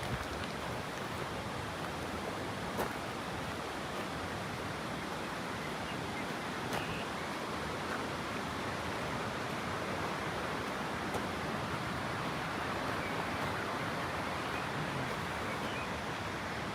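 Steady rushing of running water, even and unbroken, with a few faint ticks over it.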